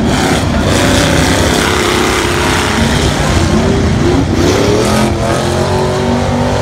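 Demolition derby cars' engines running and revving loudly on a dirt track, with a pitch that rises and falls about four to five seconds in.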